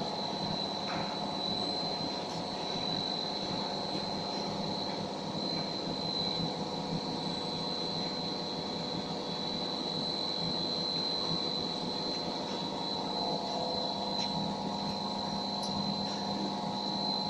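Corrugated plastic pipe extrusion line running: a steady machine drone with a constant high whine.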